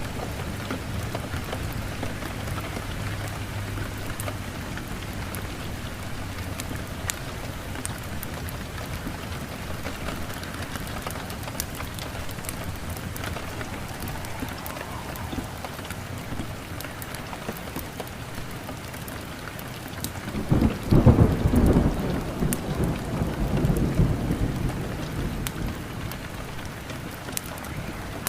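Steady rain with scattered sharp crackles. About twenty seconds in, a low rumble of thunder swells and fades away over several seconds.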